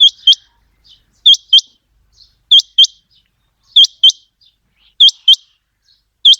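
Common quail calling: short, sharp, high notes in evenly spaced pairs, a pair a little less than once a second and a half, repeated steadily.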